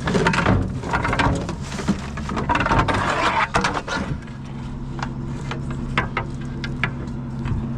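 Metal tools clattering and scraping as they are handled and pulled out, busiest in the first half with scattered knocks after, over a steady low engine hum.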